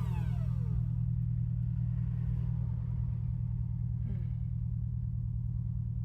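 A vacuum cleaner motor winding down after being switched off, its whine falling in pitch and dying away within the first second, over a steady low rumble.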